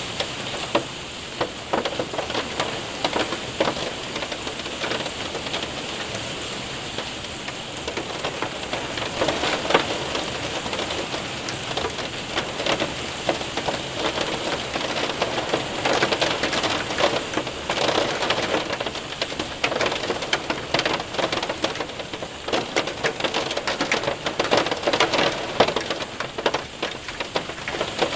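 Hail and heavy rain hitting a window and roof: a steady hiss of rain, thick with sharp clicks of hailstones that come denser in the second half.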